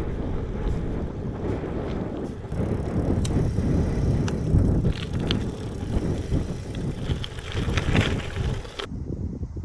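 Riding noise from a Decathlon GRVL 520 gravel bike rolling along a road: a steady rumble of tyres and wind buffeting the microphone, with scattered light clicks. The upper hiss cuts off suddenly near the end.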